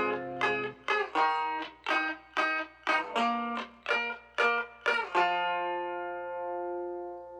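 Closing bars of a song on plucked strings: single notes picked about twice a second, then a final chord struck about five seconds in and left to ring and fade.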